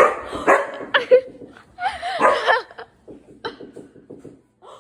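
A big curly-coated dog making short vocal noises that rise and fall in pitch, then a low, rapidly pulsing grumble about three seconds in.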